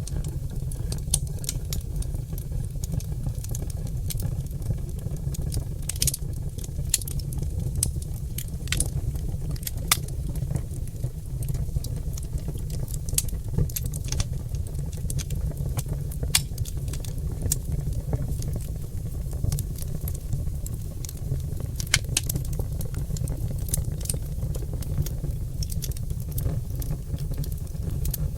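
Wood fire of oak logs crackling and popping: many scattered sharp pops, a few louder than the rest, over a steady low rumble of the flames.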